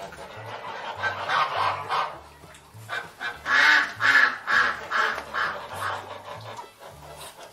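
Domestic waterfowl calling in a quick series of loud, repeated calls, loudest in the middle, over background music with a low bass line.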